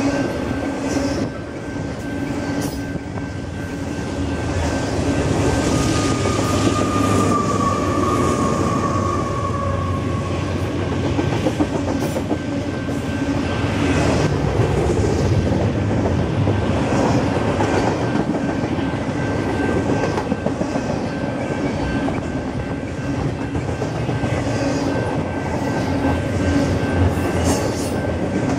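Union Pacific double-stack container train's well cars rolling past: a steady rumble of steel wheels on rail with irregular clicking over the rail joints, and a brief high whine a few seconds in.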